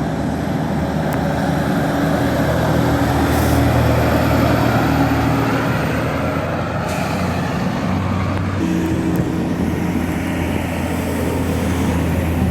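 Heavy road vehicle's engine running steadily with tyre and road noise; the engine note changes about eight seconds in.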